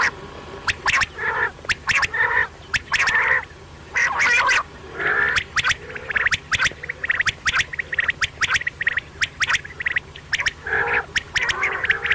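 Quail calling over and over: repeated short calls of about half a second, mixed with quick sharp clicking notes.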